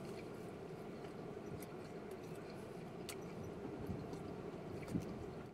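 Two men chewing breakfast sandwiches, with small wet mouth clicks, over a steady low hum inside the car. There is a short low thump about five seconds in.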